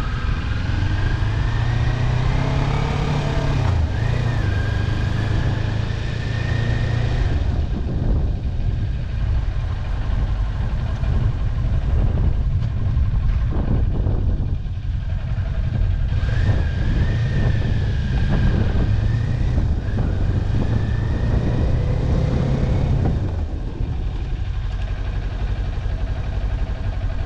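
Motorcycle engine running under way, its pitch climbing as it accelerates for the first several seconds, easing off as it slows, then climbing again before dropping back near the end.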